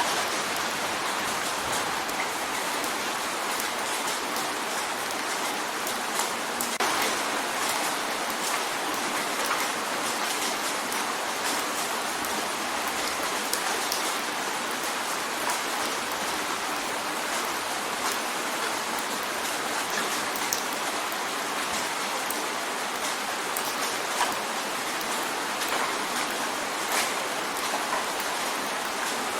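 Steady rain drumming on a window pane, a dense even patter with scattered sharper drop ticks.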